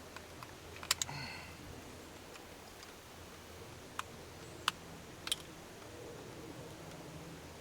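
A handful of light metallic clicks and taps from small hand tools working on hydraulic cylinder parts while seals are picked out. A close pair about a second in rings briefly, and a few more single taps follow later.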